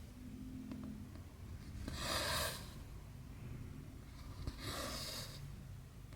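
Cotton embroidery thread pulled through cross-stitch fabric, making a short swish twice, about 2.7 s apart. There are faint ticks in between, typical of the needle pushing through the fabric.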